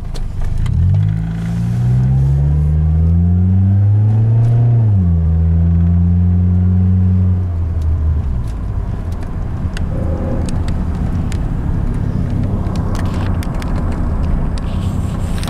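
Car engine heard from inside the cabin, rising in pitch as the car accelerates, dropping sharply about five seconds in and then holding a steady note. After that it fades into steady road rumble with scattered clicks and knocks.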